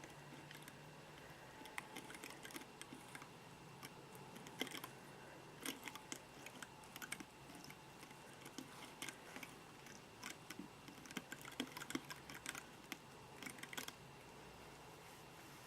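Irregular light clicks and taps of small objects being handled close to the microphone, quick and uneven, some in short clusters.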